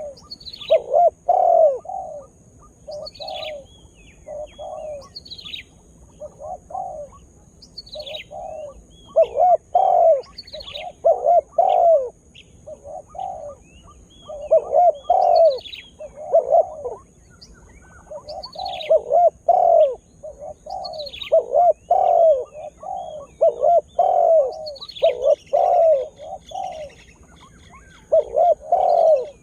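Spotted dove cooing over and over, in phrases of several coo notes repeated every couple of seconds. Between the phrases come short, high, falling chirps from a smaller bird.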